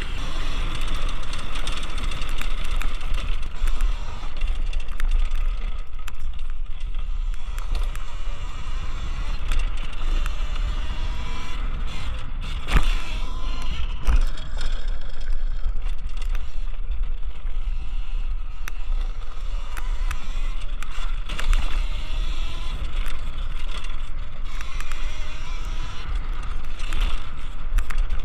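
Electric dirt bike motor whining, its pitch rising and falling as the throttle is worked, over a heavy rumble of wind on the microphone. One sharp knock about thirteen seconds in.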